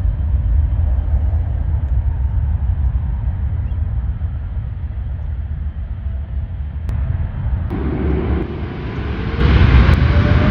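Jet airliner engines: a steady low rumble, then from about eight seconds in a louder jet noise with a whine rising in pitch, growing louder near the end.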